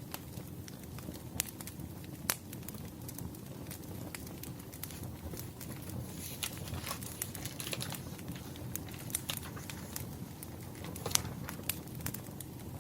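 Wood fire crackling: irregular sharp pops and snaps over a steady low rumble, with a louder pop a couple of seconds in and another near the end.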